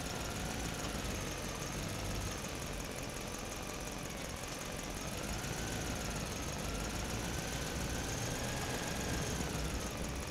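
A small motor or engine running steadily, with a faint whine that wavers up and down in pitch.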